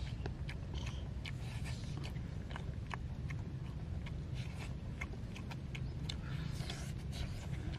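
Two children chewing and smacking their lips while eating cooked eel, with many short sharp mouth clicks scattered through, over a steady low rumble.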